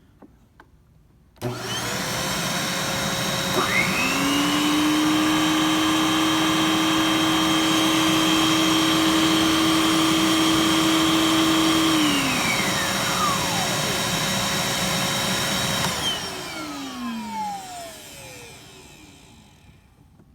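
Aerus Lux commercial upright vacuum cleaner switched on about a second in and running with a steady whine; a second, lower whine spins up a couple of seconds later and winds down around the middle. Near the end the vacuum is switched off and its motor winds down over several seconds, the pitch falling.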